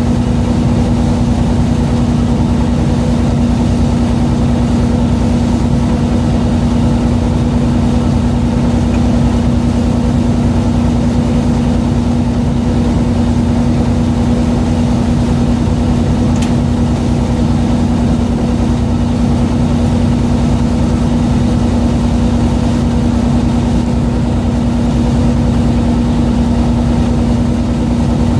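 Fishing boat's engine running steadily: an unchanging low drone with a strong hum.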